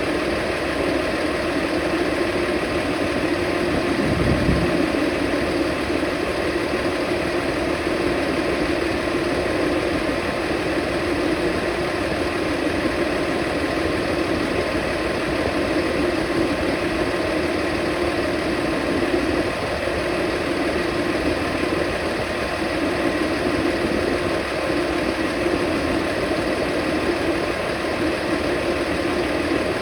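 Converted school bus's engine idling steadily while its chassis air-conditioning system takes a refrigerant charge, with a brief low thump about four seconds in.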